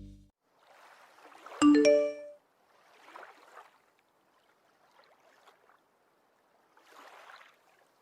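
Background music fading out, then a short bright chime of several quick notes about a second and a half in, with faint hissing swishes coming and going around it.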